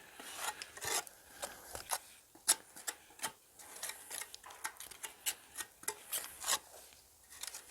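Fireclay bricks being handled and shifted: scattered short scrapes and light knocks of brick rubbing on brick and board.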